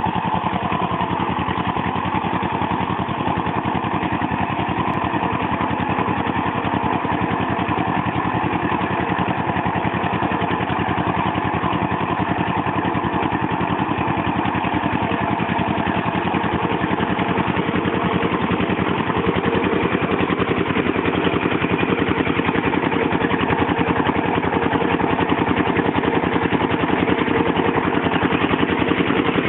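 Small 8 HP single-cylinder diesel water-pump engine running steadily with a fast, even chugging beat, getting a little louder about two-thirds of the way in.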